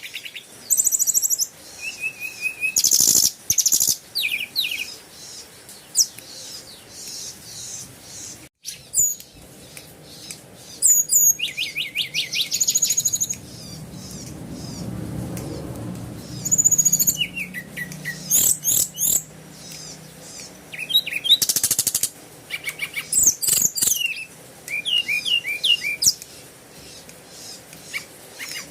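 Birds chirping and calling: many short high chirps, quick rattling trills and brief whistled notes, overlapping throughout. A faint low rumble swells in the middle and fades.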